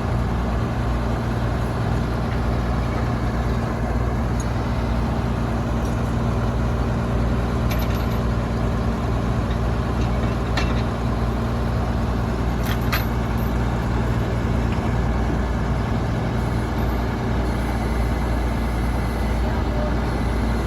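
Heavy diesel engine of large farm or earthmoving machinery running steadily with a deep, even hum. A few faint clicks come through in the middle.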